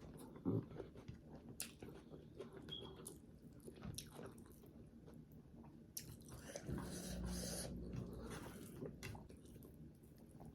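A person chewing and eating a meal of rice close to the microphone, with scattered small clicks and a louder rustling stretch about seven seconds in.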